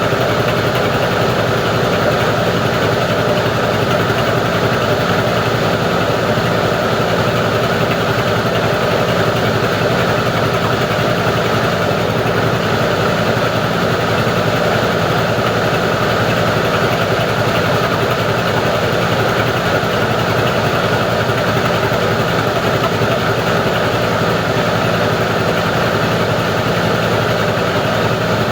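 Plastic recycling grinding machine running steadily, a loud, constant mechanical hum with no change in pitch or level.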